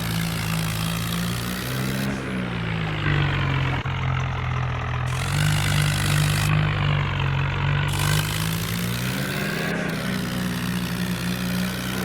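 Tractor engine running steadily. Its speed drops about two seconds in, picks up again around five seconds, and sags once more toward the end.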